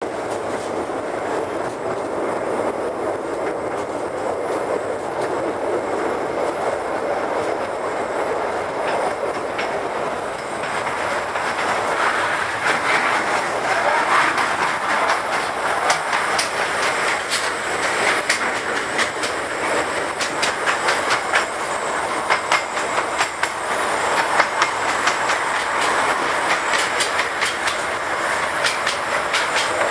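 Small narrow-gauge tourist train running along the track with a steady rumble. From about twelve seconds in, many sharp clacks of the wheels over the rail joints come through.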